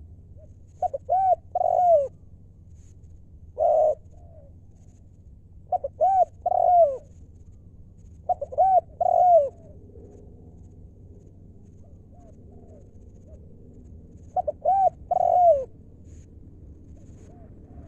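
Spotted dove cooing: five short phrases of two or three arching coos each, repeated every few seconds, with quiet gaps between.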